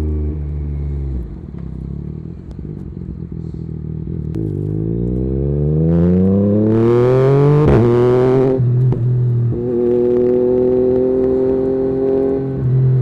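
Yamaha MT-09's three-cylinder engine through an Akrapovic carbon exhaust with the dB killer removed, under way. The revs drop about a second in, then climb steadily to a peak near eight seconds with a rush of noise on top, fall sharply at an upshift, hold a steady pitch, and shift again near the end.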